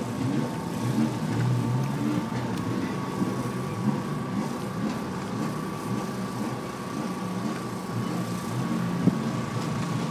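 Race car engines running at the circuit, a steady low hum with no single car passing.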